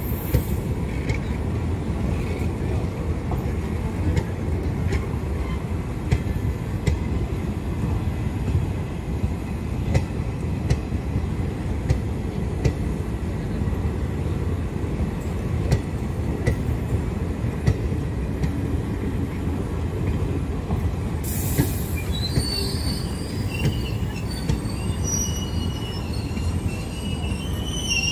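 Passenger train coaches rolling past close by: a steady low rumble with sharp wheel clicks over the rail joints every second or so. About three-quarters of the way through, a high, wavering metallic squeal from the train sets in and continues.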